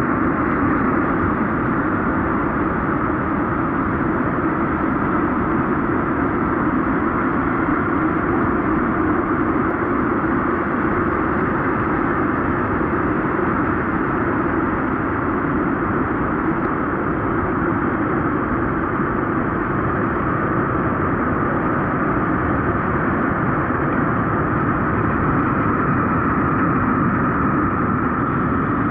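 Steady road and engine noise of a car driving along a highway, an even rumble with no change in pitch or level.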